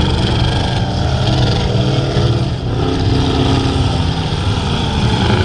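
Several full-size trucks and vans racing, their engines running hard together, with engine notes rising and falling in pitch as they speed up and back off.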